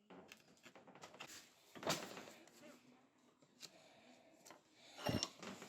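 Hand-tool cuts shaving an ash handle: a run of faint, irregular scraping strokes, the loudest about two seconds in and near the end.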